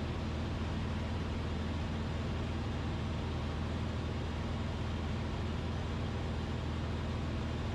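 Cessna 172RG's four-cylinder Lycoming O-360 engine and propeller running steadily in the climb-out after a go-around, heard inside the cockpit as an even drone with a low hum over a hiss of air and engine noise.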